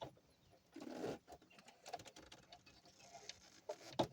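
Faint scattered clicks and taps of small parts and tools being handled, with a short rustling scrape about a second in and a sharper click near the end.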